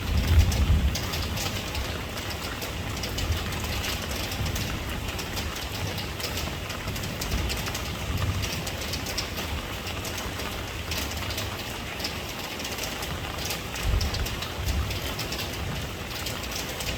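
Steady rain falling, with many separate drops ticking on a surface over a continuous hiss, and a low rumble that swells a few times.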